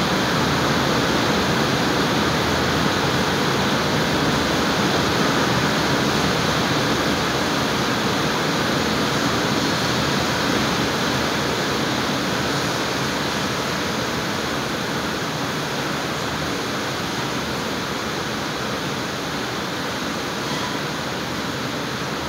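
Heavy rain pouring down in a steady, loud hiss, easing slightly in the second half.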